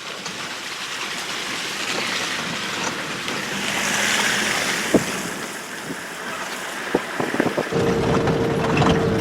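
Wind and road noise inside a taxi driving a rough, potholed dirt road, a steady hiss with a couple of sharp knocks from the bumps. Near the end a low rumble and a steady hum come in.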